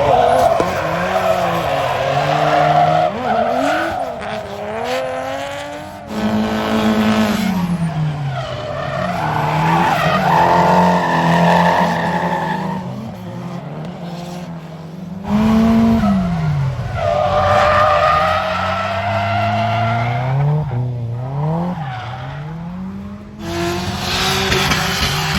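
Drift cars sliding, their engines revving up and down on and off the throttle over the screech and hiss of tyres. The sound changes abruptly three times, about six, fifteen and twenty-three seconds in.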